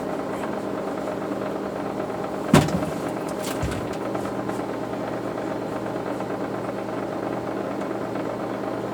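Steady mechanical hum, with a sharp knock about two and a half seconds in and a lighter one about a second later.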